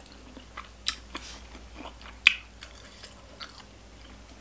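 Close-up mouth sounds of someone chewing boiled pork offal: soft wet clicks and smacks, with two sharper smacks about a second in and a little past two seconds.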